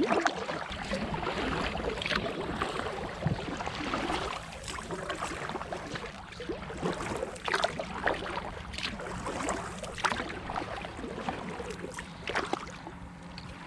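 Kayak paddle strokes: the blades dip and splash, and water drips and slaps against an inflatable kayak in a steady, irregular rhythm. A faint steady low hum runs underneath.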